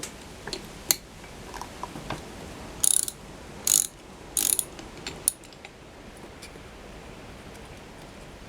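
Ratchet wrench clicking in about five short bursts as fasteners are undone, then stopping about five seconds in.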